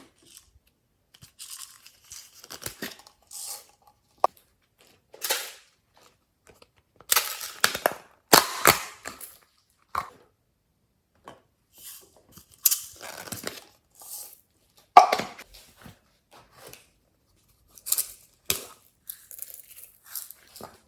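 Glossy slime being squished, stretched and folded by hand, giving irregular wet crackles, pops and tearing sounds in short bursts with quiet gaps between them. The loudest bursts come around a third of the way in and again about three quarters through.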